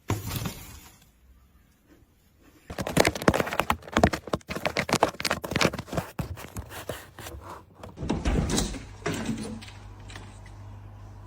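A thump, then a quick flurry of knocks and clatters lasting about five seconds, which dies down into a steady low hum.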